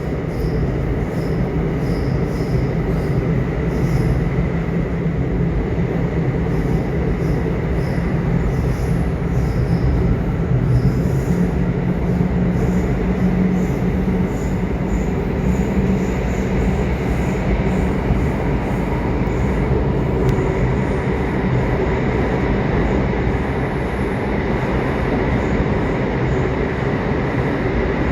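Subway train running: a steady, unbroken rumble of wheels on track with a faint high steady tone above it.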